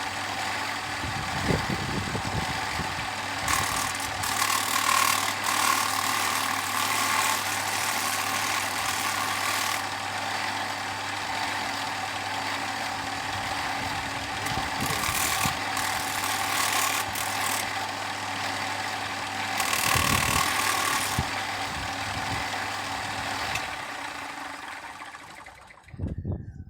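Electric angle grinder with a cut-off wheel running steadily while cutting through a steel hydraulic hose fitting. The hiss grows louder three times as the wheel bites into the metal, and the motor winds down near the end.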